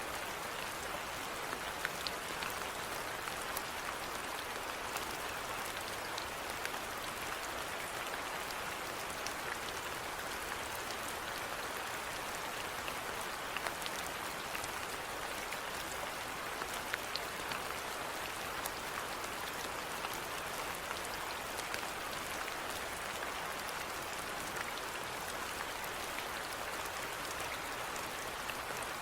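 Steady rainfall, an even hiss with many scattered sharp ticks of individual drops.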